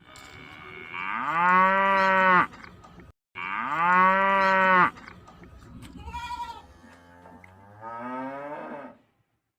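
Cattle mooing: two loud, long moos back to back, each rising at the start and then held. Fainter, shorter moos follow.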